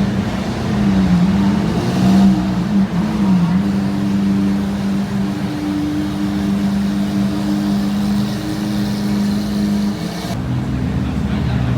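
A car engine running close by with a steady humming note that dips and wavers in pitch during the first few seconds, then holds steady before dropping to a lower note about ten seconds in.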